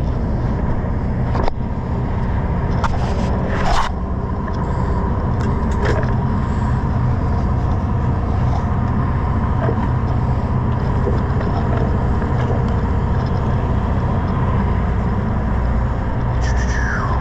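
A boat's engine running steadily at idle, a low continuous hum, with a few knocks and scrapes in the first several seconds.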